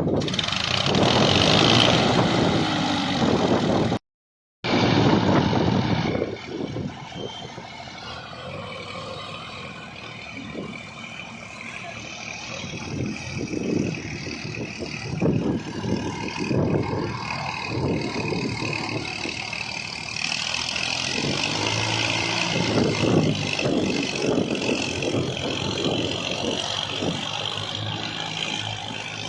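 Heavy-machinery diesel engines running and working, rising and falling in effort. The sound cuts out completely for about half a second a few seconds in.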